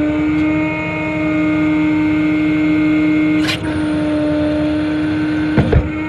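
The PTO-driven hydraulic pump of a 2012 International Terrastar service truck running under load, with the MaxxForce diesel at raised idle: a steady whine as the outriggers are lowered by hand valve. The whine shifts abruptly about three and a half seconds in, and a couple of sharp knocks come near the end.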